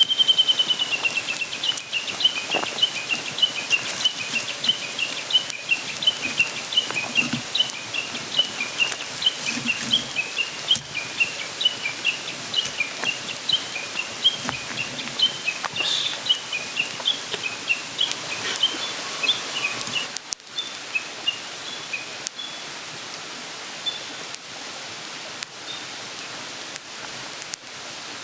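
A bird calling in a long run of quick, high chirps that starts with a falling note and fades out after about twenty seconds, over the steady rush of a mountain stream.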